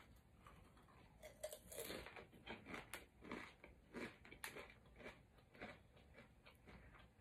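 Faint crunching of a person chewing a crunchy snack with the mouth closed: irregular crisp crackles, about three or four a second, thinning out near the end.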